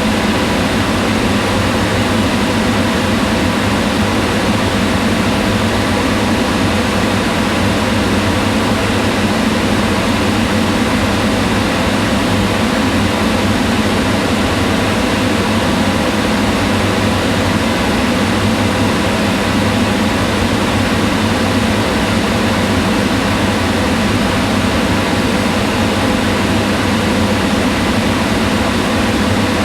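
Kitchen range hood exhaust fan running steadily: an even rush of air with a low hum and faint steady tones.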